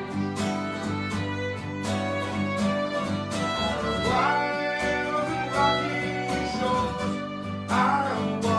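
Fiddle playing a folk melody over a strummed acoustic guitar, live.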